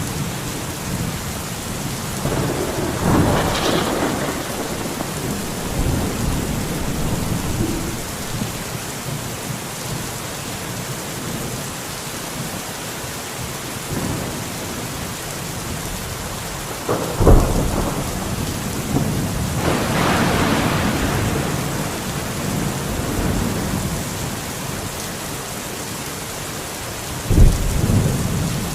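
Steady rain with thunder: a rumble builds about three seconds in, a sharp crack comes a little past halfway followed by a long rolling swell, and another sharp crack comes near the end.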